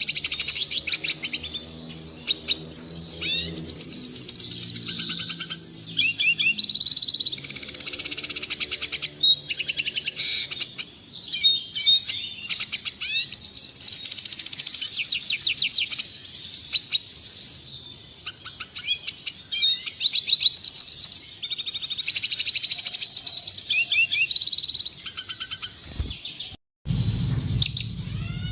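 Red siskin singing: long runs of rapid, high twittering and trills with short pauses between phrases. Near the end the sound drops out briefly and a low hum comes in under the song.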